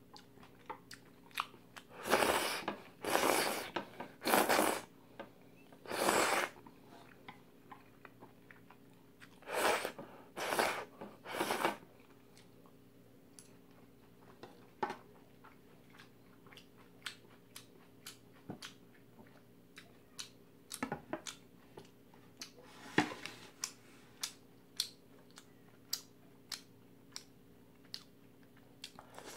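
A person eating close to the microphone: several loud, wet, noisy bursts in the first twelve seconds, then steady chewing with many short, crisp crunching clicks.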